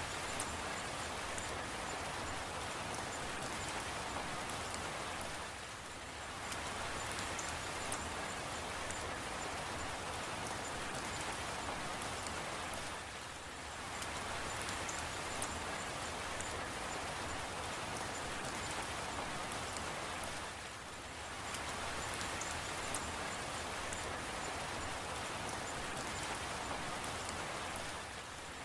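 Steady rain, an even hiss with fine pattering drops, dipping briefly in level about every seven and a half seconds.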